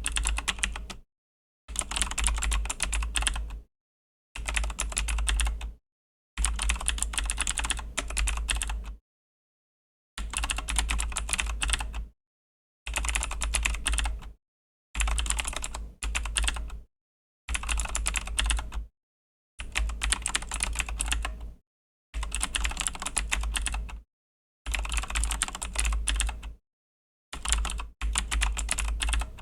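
Razer BlackWidow V3 mechanical keyboard with clicky Razer Green switches being typed on fast, in runs of a second or two of rapid key clicks broken by short pauses, again and again.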